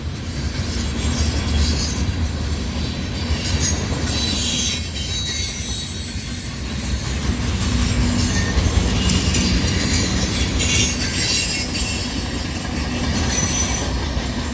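CN freight train cars rolling past with a steady rumble of steel wheels on the rail and intermittent high-pitched wheel squeal.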